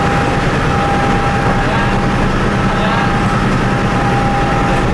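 Large engine running steadily at the boarding area, a low hum with a steady high whine over it.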